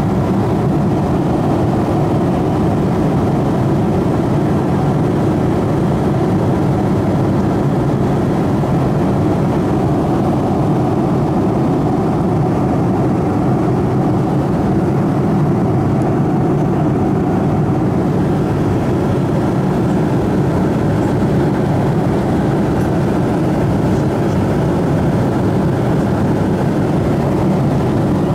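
Steady engine and airflow noise inside an airliner's cabin as the plane climbs, an even low rumble without change.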